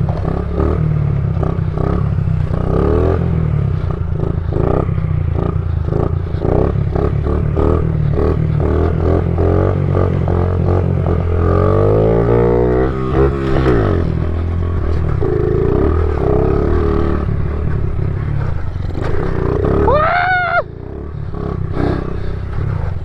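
Small pit bike engine running and being revved as it is ridden, with clatter from the bike and a rise and fall in engine pitch about halfway through.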